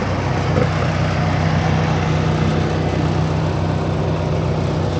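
A heavy engine idling steadily with a low, even hum, most likely the machine that has just brought a car into the yard.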